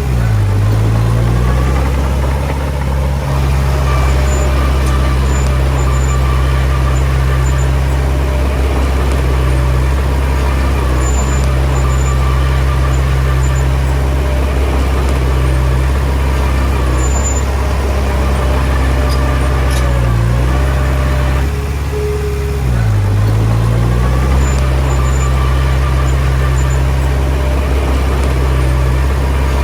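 Heavy diesel engine of earthmoving machinery running steadily. Its pitch briefly dips and recovers about a second in, and again about two-thirds of the way through.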